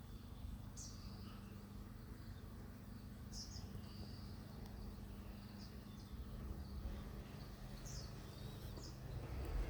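Faint outdoor ambience: short, high, downward-sweeping bird chirps every few seconds over a steady low rumble.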